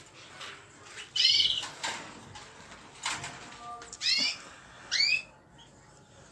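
Small pet cage birds chirping: short clusters of quick, curved chirp notes, about four of them, a second, two, four and five seconds in.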